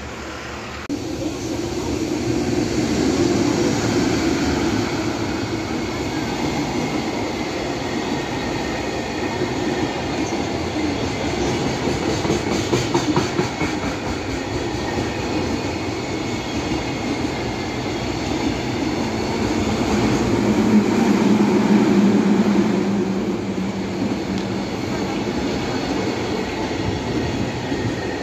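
JR Freight container train, flat wagons loaded with containers, passing close by: a steady, loud rumble of wheels and wagons on the rails, with a stretch of rapid wheel clicks about halfway through and a louder swell near the end.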